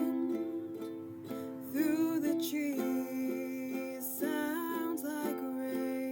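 Instrumental intro of the arrangement: a ukulele strummed in a steady rhythm, with a gliding melody line over it about 2 and 4 seconds in.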